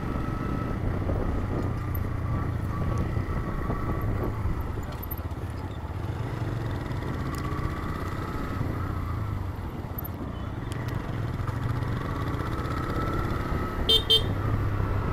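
TVS Raider 125's single-cylinder engine running while the motorcycle is ridden, its note easing off about halfway through and then picking up again.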